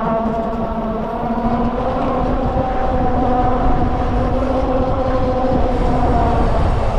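Freego X2 electric dirt bike's motor whining steadily under way, with a dense low rumble of wind and tyres on the microphone.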